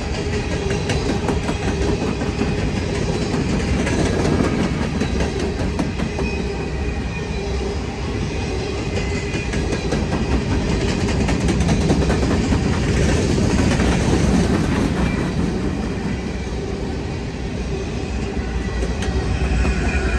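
Freight train rolling past, its steel wheels rumbling and clicking over the rails, with faint wheel squeal. The sound is steady throughout.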